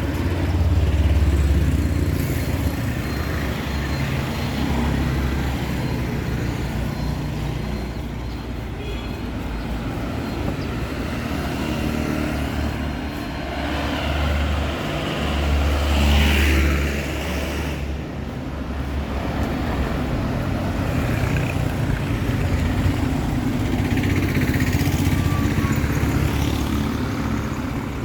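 Town street traffic: motor vehicles' engines rumbling as they pass, loudest about a second in and again about halfway through.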